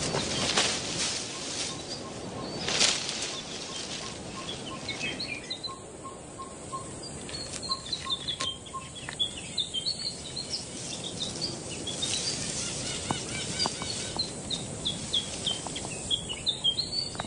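Forest birds calling. One bird repeats a single piping note about five times a second for the first nine seconds or so, and from about five seconds in many high chirps and short trills overlap. Two brief rustling bursts, like leafy branches being shaken, come in the first three seconds.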